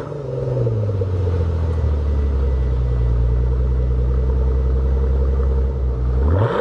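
Mercedes-Benz S65 AMG twin-turbo V12 idling steadily after its revs settle in the first second, then blipped near the end, its pitch rising quickly.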